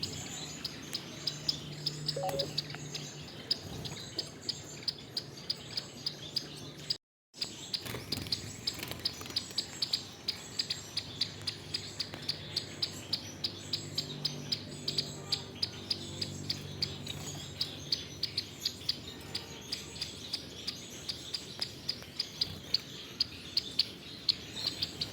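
Gouldian finches chirping, short high calls several a second without a break, over a low steady hum. The sound drops out completely for a moment about a third of the way in.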